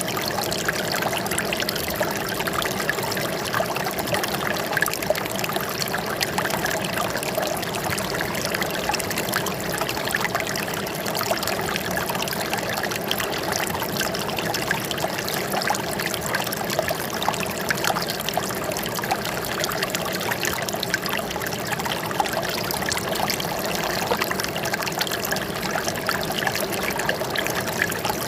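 Running water trickling and splashing steadily, like a small stream or water flowing over stones.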